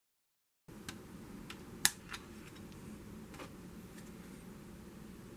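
Sharp plastic clicks and taps from a toy transformation gadget being handled, one much louder than the rest about two seconds in, over a faint steady room hum. The first moment is dead silent.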